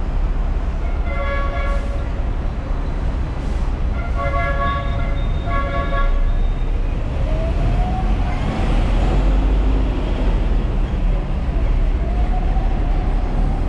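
Hong Kong tram running with a steady low rumble. A horn toots briefly about a second in and twice more around four to six seconds in. From about seven seconds, and again near the end, a whine rises in pitch as the tram picks up speed.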